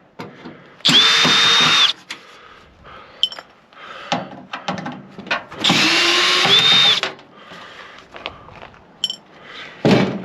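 Power drill-driver running in two bursts, each a second or so long, backing out two screws from a microwave oven's casing, with small clicks and clatter of handling between the bursts.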